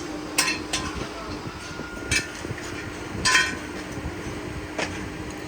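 Metal tools and shock absorber parts clinking against each other, five sharp knocks spread unevenly, over a steady low hum.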